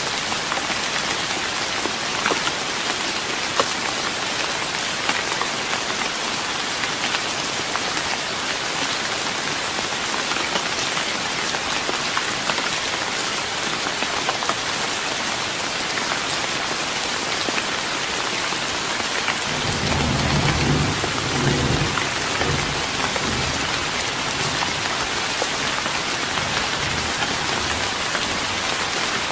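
Steady rain pattering on a wooden deck, with a low roll of thunder swelling about two-thirds of the way in and slowly dying away.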